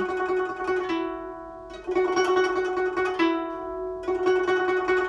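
Guzheng being plucked slowly, a short melodic phrase of ringing notes. New notes strike about a second apart, each left to ring and fade.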